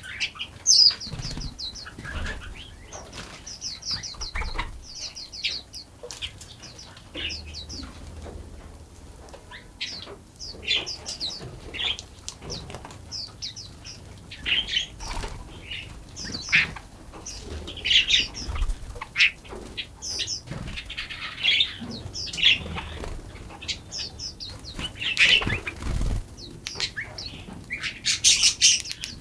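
Several songbirds chirping and singing in overlapping short, high calls and quick runs of repeated notes, with occasional soft low thumps.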